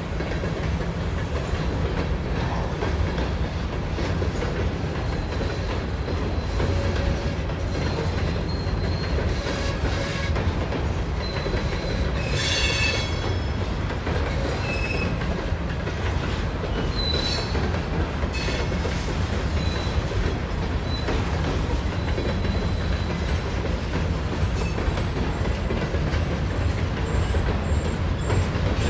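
A CSX freight train of covered hopper cars rolling past steadily: a continuous low rumble of steel wheels on rail, with thin high wheel squeals coming and going and one brief, sharper squeal about twelve seconds in.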